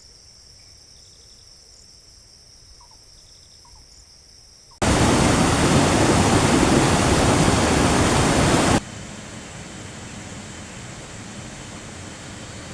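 A faint steady high-pitched drone with a few soft chirps, then a loud even rushing noise that cuts in suddenly about five seconds in and cuts off about four seconds later, leaving a softer steady rush.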